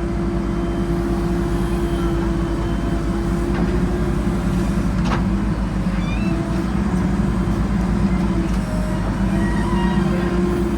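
Diesel engine of heavy farm or construction machinery running steadily at constant speed, a continuous drone with a brief click about halfway through.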